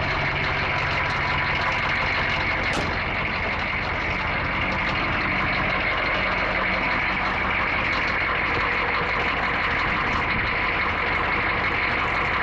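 1986 Chevrolet M1008 CUCV's 6.2-litre GM/Detroit Diesel V8 idling steadily, a few minutes after a cold start at about 18 °F.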